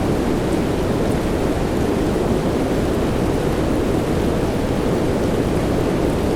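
Steady soft rain used as sleep noise: an even, unbroken hiss weighted toward the low end, with a few faint ticks of single drops.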